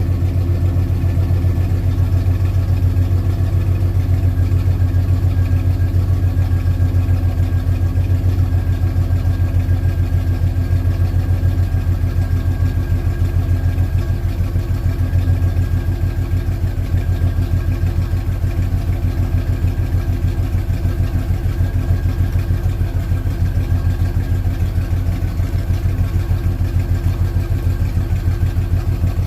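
1968 Oldsmobile 442's 400 V8 idling steadily after a cold start, with an even exhaust pulse. The owner calls the engine a little tired.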